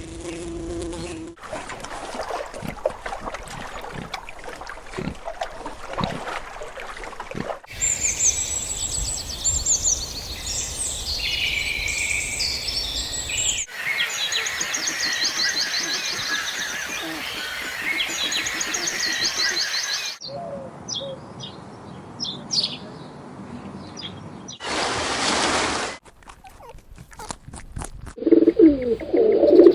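Several short animal-sound clips one after another. The main sound is small birds chirping and twittering busily in rapid high trills, in two stretches through the middle. Around them are a stretch of rustling noise with scattered clicks, a few fainter chirps, and a brief burst of hiss.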